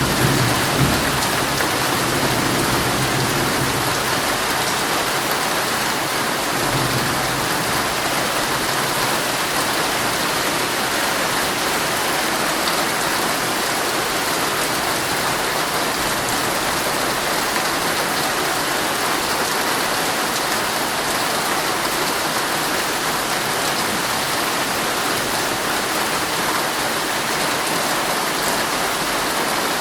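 Heavy rain falling steadily on a tent, an even hiss. A low thunder rumble fades out over the first few seconds, with a brief low swell about seven seconds in.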